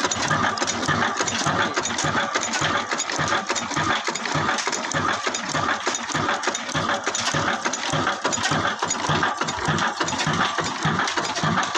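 Single-cylinder 'Kala' diesel engine running steadily, with an even, rhythmic metallic clatter.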